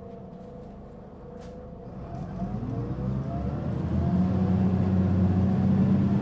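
Mitsubishi Fuso Aerostar city bus's diesel engine heard from inside the bus, quiet at first, then pulling away about two seconds in and rising in pitch. By about four seconds it becomes a loud, steady drone. The bus was making a heavy abnormal noise while running.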